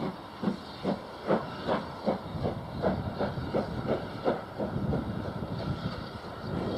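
Steam locomotive pulling away, its exhaust chuffing in distinct beats that quicken as it gathers speed and blur together after about five seconds.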